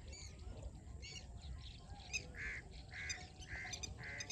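Birds calling: quick high chirps throughout, and from about two seconds in a clear call repeated five times, roughly every half second.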